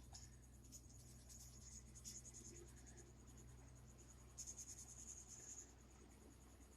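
Faint squeaky scratching of a black chisel-tip marker colouring in on paper, strongest for about a second a little after the middle.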